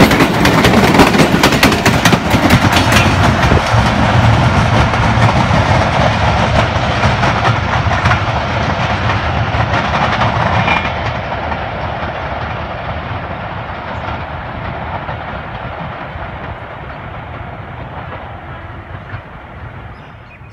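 Pakistan Railways passenger coaches rolling past on the track, the wheels clicking rapidly over the rail joints. The noise then fades steadily as the train moves away down the line.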